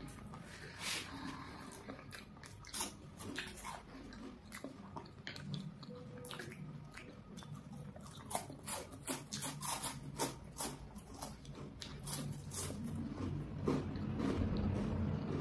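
Chocolate bars being bitten and chewed close to the microphone: a run of sharp crunchy clicks, thickest in the second half.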